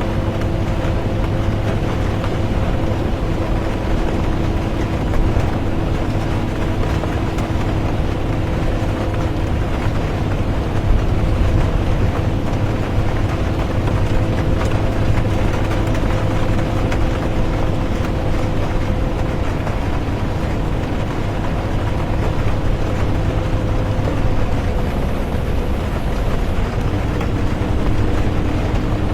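Inside a moving bus: a steady low engine drone and road noise, with a few constant humming tones, blended with calm rain.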